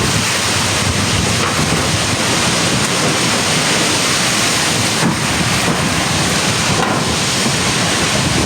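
Heavy hurricane rain and strong wind as a steady, loud rush, with wind buffeting the microphone.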